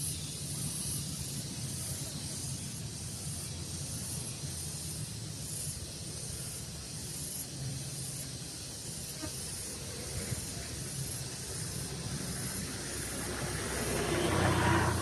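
Outdoor daytime ambience: a steady high hiss pulsing about twice a second over a low rumble, with a louder rush of noise swelling up near the end.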